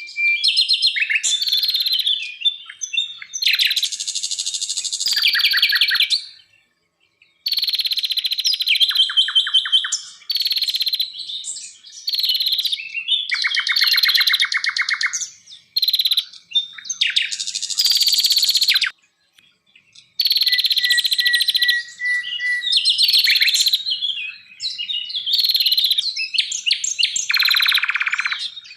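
Songbird singing a loud, varied song of whistled phrases and rapid trills, broken twice by brief pauses.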